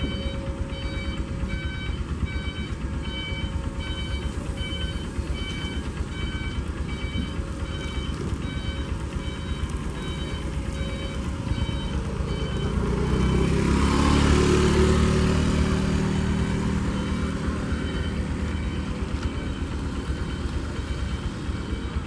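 High-speed inspection train cars rolling past with a steady low rumble of wheels on rail. A repeating electronic warning beep sounds over roughly the first half, and a louder swell of machinery hum rises and fades about two thirds of the way through as the cars go by.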